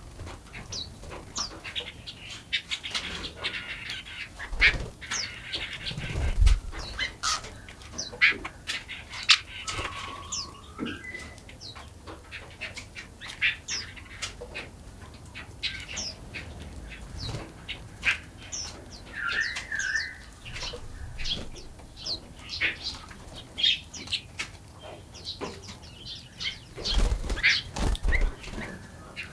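Several small forest birds chirping and singing: a steady stream of quick high chirps, with a few warbled phrases. There are a couple of low thuds, about six seconds in and again near the end.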